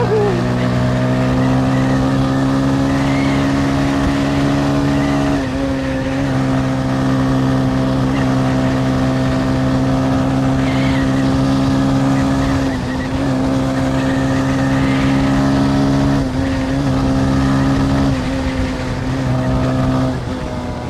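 Motorcycle engine running at a steady cruising pitch while riding, its note dipping briefly about five times before picking up again.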